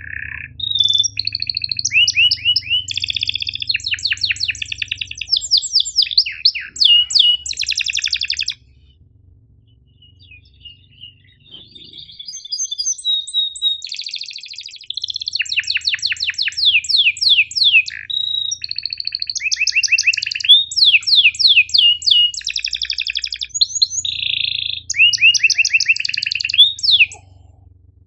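Domestic canary singing long, fast rolling trills and sharp chirps. There is a lull of about five seconds near the middle, with only faint chirps, before the song resumes.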